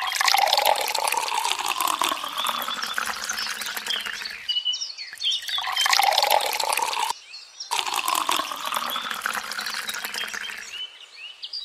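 Water pouring and splashing in three stretches, each broken off abruptly, with a brief bird chirp in the first gap.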